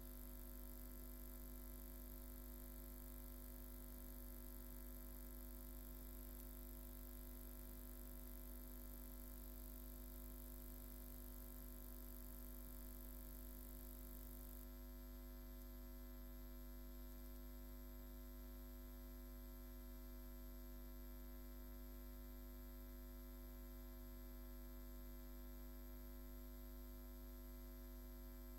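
Steady electrical mains hum with several fixed tones over a faint hiss, near silence otherwise; the high hiss drops a little about halfway through.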